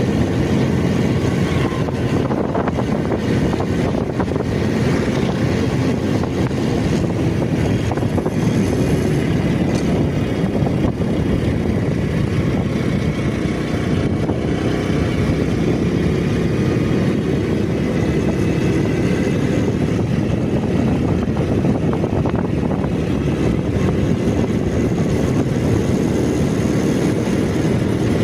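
Steady rumble of a vehicle on the move, running noise concentrated low with no breaks or changes.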